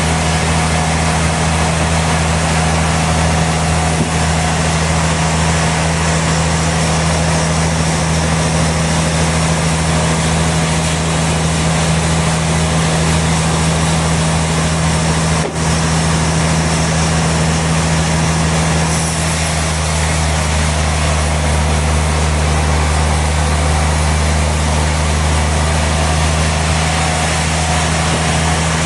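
Sawmill machinery running steadily: a constant low engine drone with a steady hum over a wash of mechanical noise. There is one brief dip about halfway through.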